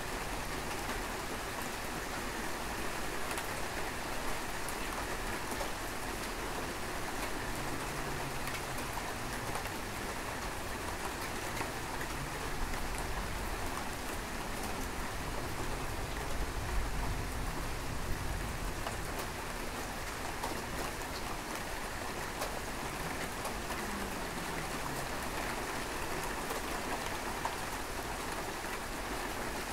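Steady rain falling, an even hiss of drops. A low rumble swells briefly about halfway through.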